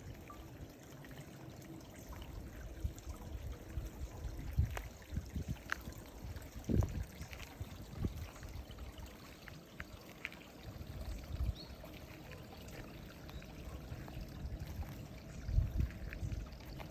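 A small stream trickling and pouring, with scattered small clicks and a few low thumps, the loudest about seven seconds in and near the end.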